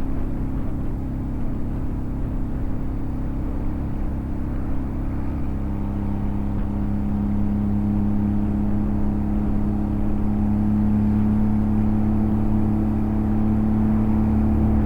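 Motorcycle engine running steadily while riding, a constant drone that grows a little louder and stronger from about halfway through.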